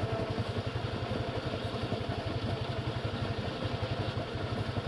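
Polaris RZR side-by-side's engine idling steadily with a fast, even low pulse.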